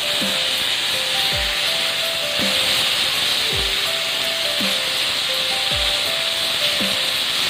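Herring frying in hot oil in a steel kadhai, a steady sizzle as it is stirred with a metal spatula. Background music plays alongside, with a short repeating melody and a falling bass note about once a second.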